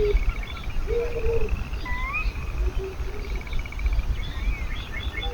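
Backyard birds calling: a rising whistled note twice, each followed by a fast trill, and short low cooing notes in the first half, over a steady low rumble.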